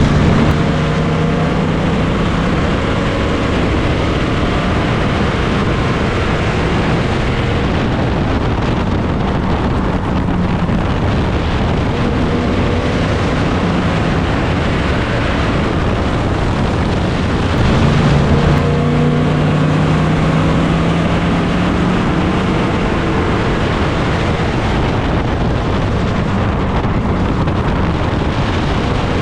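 Dirt-track race car engines running laps, a loud steady drone of several cars. About eighteen seconds in, one engine comes up louder with a slowly rising note as a car passes close, with some wind on the microphone.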